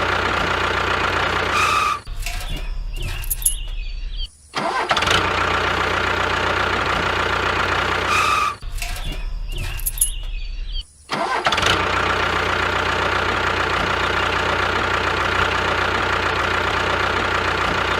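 Engine-like running drone, steady in pitch. It is broken twice for about two seconds by a low hum with clicks and a short dropout.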